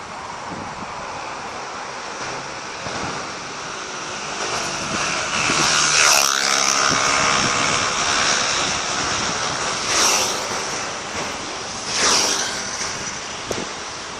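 Fireworks display: a steady noisy rumble with three louder hissing, crackling surges, about six, ten and twelve seconds in.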